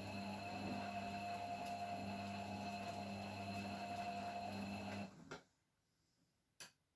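Beko washing machine running with a steady hum that cuts off about five seconds in, followed by a couple of clicks and then a single sharp click near the end.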